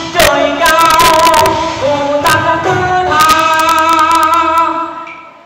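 A woman singing long, wavering notes over musical accompaniment, with quick runs of sharp percussive clicks. It fades out near the end.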